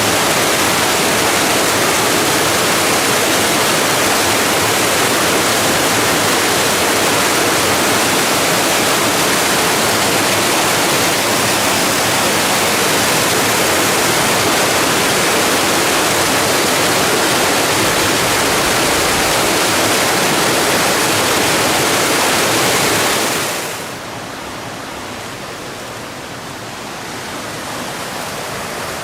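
Loud, steady rush of a mountain stream's falling water. About six seconds before the end it drops suddenly to a softer, duller rush.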